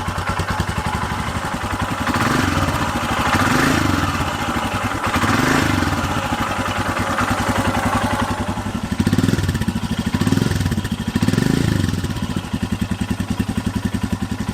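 Royal Enfield Himalayan's 411 cc single-cylinder engine idling through its standard factory exhaust, with several short blips of the throttle.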